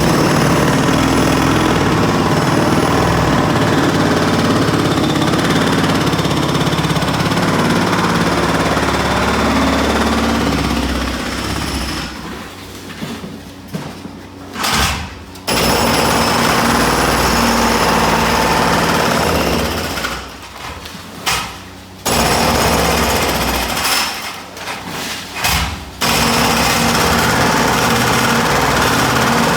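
Demolition hammer breaking up a structural wall, hammering in long continuous runs that stop briefly three times, near the middle and twice more later on.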